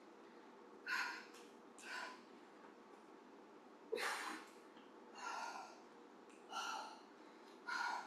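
A woman breathing hard while exercising with weights: six short, forceful breaths, roughly one every second or so, the strongest about a second in and about four seconds in.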